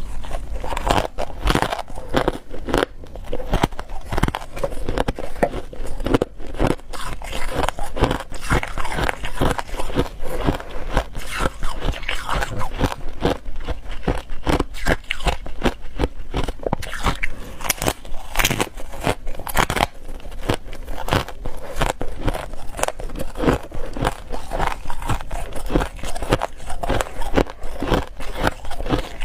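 Ice being bitten and chewed: a dense, continuous run of sharp crunches, several a second, with no real pause.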